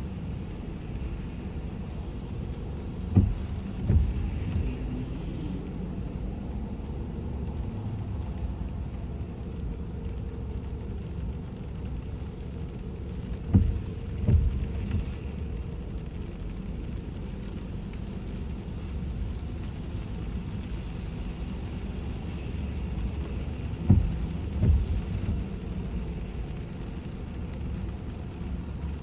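Steady road rumble inside a car's closed cabin, driving on a rain-wet road. Three double thumps come about ten seconds apart.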